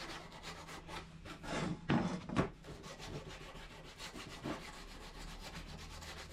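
Rapid rubbing and scraping strokes, with two louder scrapes about two seconds in.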